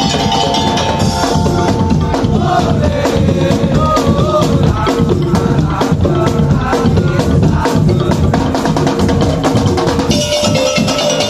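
Madurese ul-daul (tong-tong) ensemble playing: dense, rhythmic drumming with a melody on tuned percussion. The texture changes about ten seconds in.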